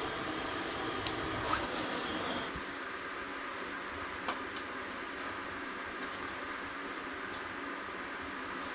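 Wood fire burning in a home fireplace: a steady hiss with a few sharp crackles and small pops scattered through it.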